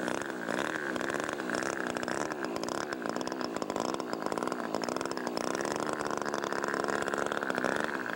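Radio-controlled model aircraft engine running at high revs, its pitch wavering up and down as the plane flies.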